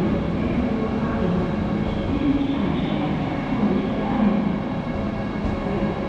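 Rail vehicle running on the track: a steady noise with a low, wavering hum.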